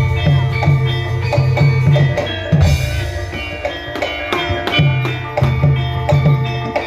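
Javanese gamelan ensemble playing lengger dance music: ringing bronze metallophones and gongs holding many pitches together, over drum strokes about twice a second.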